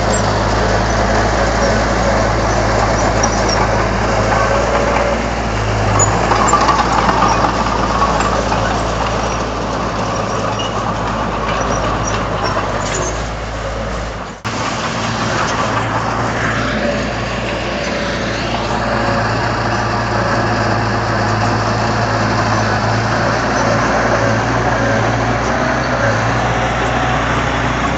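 Komatsu D31 bulldozer's diesel engine running steadily while it works, with a sudden break for an instant about halfway through.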